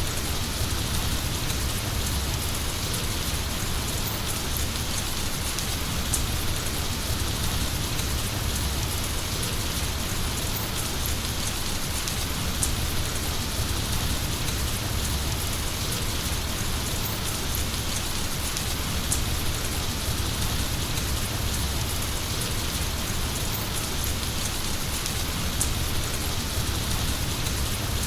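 Heavy rain falling steadily, with a continuous dense hiss of drops and the odd sharper drop tick.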